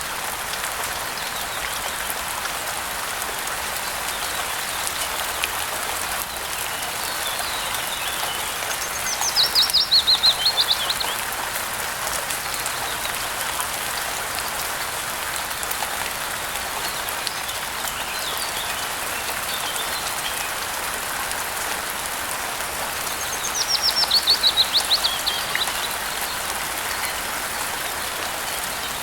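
Steady rain falling, an even hiss. Twice, about nine and twenty-four seconds in, a bird sings a quick series of high notes that falls in pitch, lasting about two seconds each time, with fainter bird calls in between.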